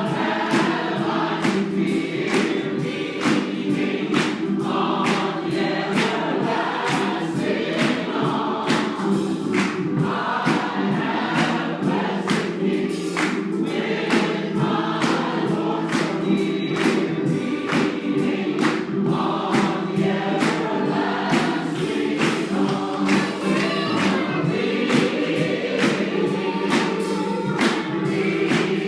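Church congregation singing a gospel song together in chorus, with a steady beat of sharp hits running through it.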